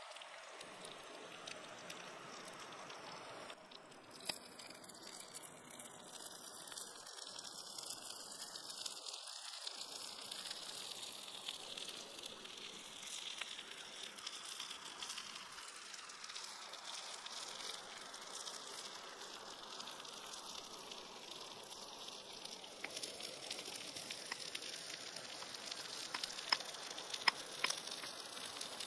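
Whole prawns frying on a hot stone slab: a steady crackling sizzle, with a few sharper pops near the end.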